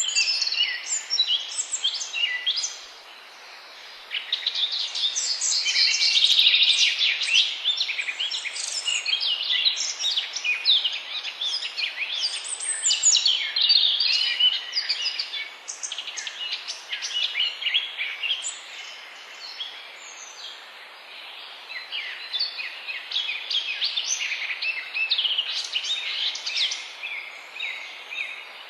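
Songbirds singing, a dense chorus of quick high chirps and trills overlapping one another. It drops to a brief lull about three seconds in and thins out again past the middle, over a faint steady hiss.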